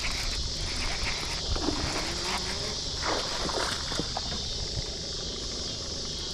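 A steady, high insect chorus of crickets or cicadas, with scattered light knocks and rustles of handling around the boat.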